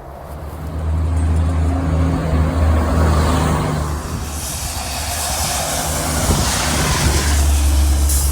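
Heavy road vehicles passing close by: a low engine drone for the first few seconds, then a rush of tyre and air noise, and another strong low engine drone near the end.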